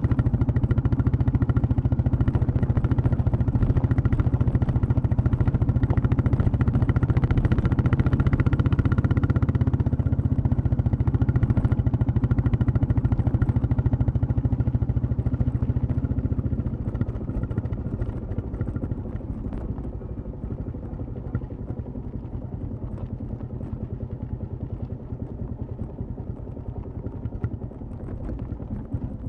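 Royal Enfield Classic 350's single-cylinder engine and exhaust running steadily under way, then getting noticeably quieter about halfway through as it eases off.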